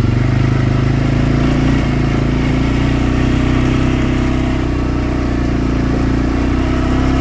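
A vehicle's engine running steadily as it drives along, its pitch shifting only slightly.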